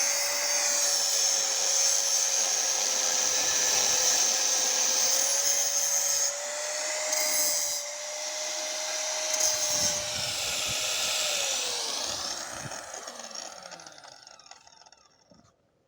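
Handheld electric power tool running at a steady whine with a hissy edge, its pitch wavering slightly. About twelve seconds in it is switched off and spins down to a stop.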